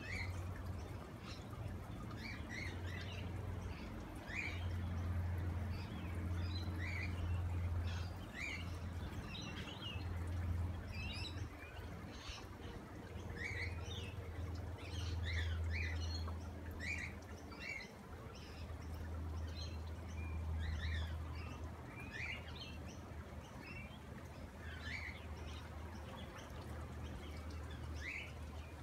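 Small birds chirping and twittering again and again, with a low rumble that swells and fades every few seconds underneath.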